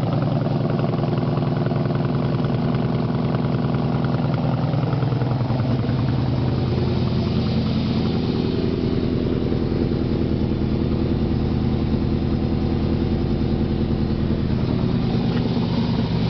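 A 1971 Ford Mustang's engine idling steadily, with an even, rapidly pulsing exhaust note.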